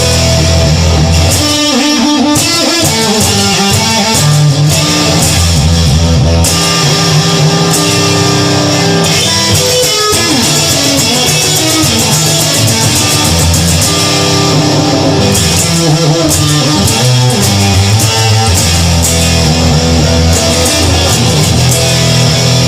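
Instrumental rock music with electric guitar and bass guitar playing, with no singing.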